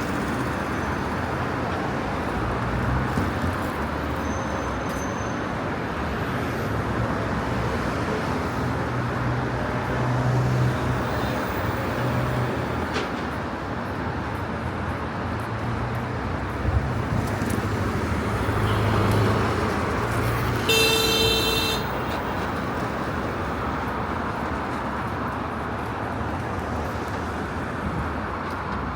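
Street traffic: steady road noise and engine hum from passing vehicles, with a short horn beep about two-thirds of the way through.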